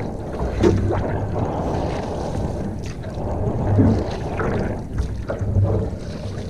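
Water sloshing and splashing around a canoe as it is paddled, with wind gusting on the microphone.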